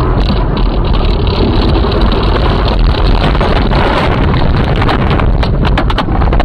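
Loud vehicle rumble with wind buffeting the microphone, joined by a quick run of clicks and knocks in the last second or so.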